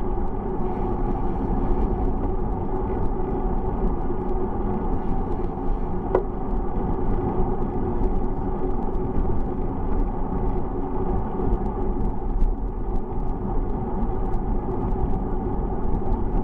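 Steady wind and road rumble from riding a bicycle, heavy in the low end, with a brief tone about six seconds in.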